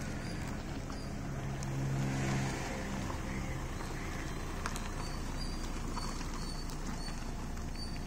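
Hyundai Creta's engine running at idle as the car creeps backwards on clutch control alone, without accelerator. A low hum swells briefly about two seconds in.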